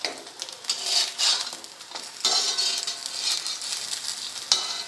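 Oil sizzling under shallow-frying rice patties on an iron tawa, with a steel spatula scraping and knocking on the pan several times as the patties are turned.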